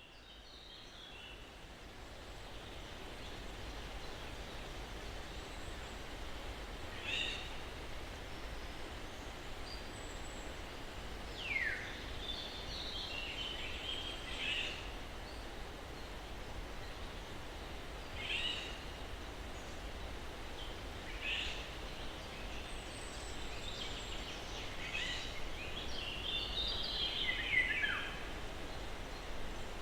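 Steady breeze hiss in the trees with scattered bird calls and chirps, including a couple of clear downward-sweeping notes. The sound fades in over the first few seconds.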